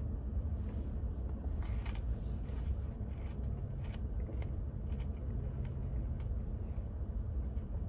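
Someone chewing seasoned curly fries with faint irregular crunches, over a steady low rumble.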